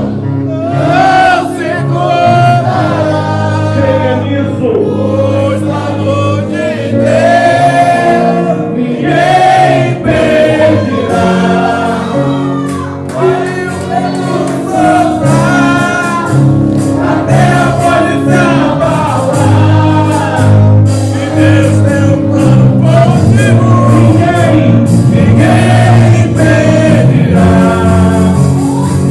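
A church praise band plays a worship song while a group of voices sings it.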